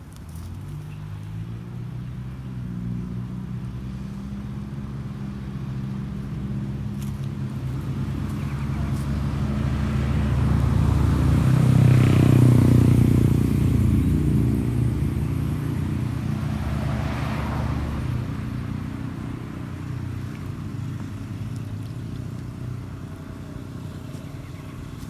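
A motor vehicle drives past, its engine running at a steady pitch: it grows louder to a peak about halfway through, then fades away.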